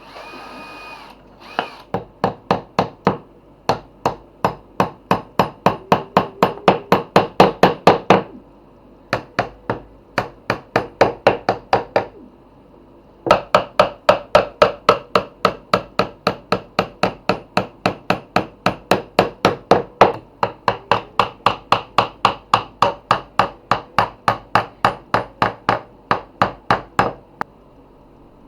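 Hammer striking wood in steady runs of about three blows a second, with two short pauses between the runs.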